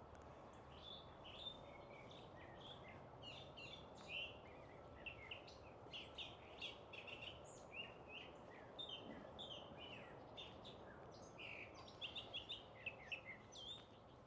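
A chorus of several wild songbirds chirping and singing together, many quick short notes overlapping, a little denser near the end, over a faint steady background hiss.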